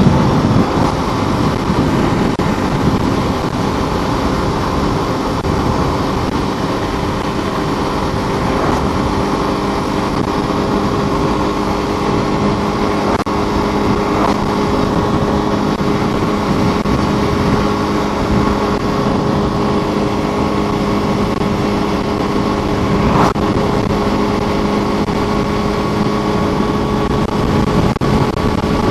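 Suzuki Inazuma GW250 motorcycle's parallel-twin engine running at steady cruising revs at about 55 mph, mixed with wind and road noise.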